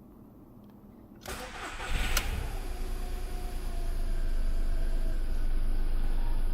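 A 2002 Volkswagen Polo 9N's 1.2-litre three-cylinder petrol engine is started. It cranks on the starter just over a second in, catches, and settles into a steady idle.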